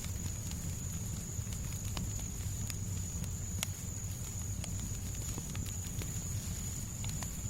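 Fireplace crackling, with irregular sharp pops and snaps over a steady low rumble of fire and white noise. A thin steady high tone runs through it.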